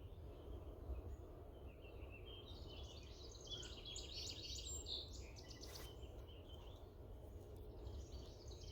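Faint chirping of small birds, many short calls in the middle stretch, over a steady low outdoor rumble.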